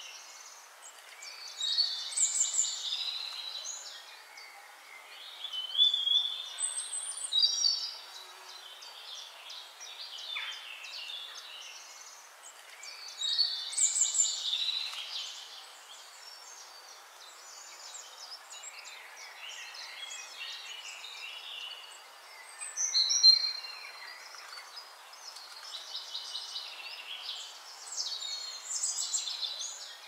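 Songbirds singing: phrases of chirps and trills come every few seconds over a faint steady hiss, with the sharpest, loudest call a little before the end.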